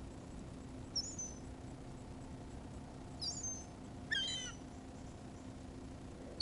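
Seagulls calling: three short, high-pitched, wavering calls.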